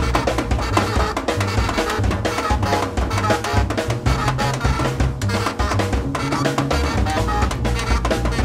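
Free-improvised jazz trio playing live: a busy, dense drum kit with rapid strikes on drums and rims, over shifting low bass notes and a saxophone.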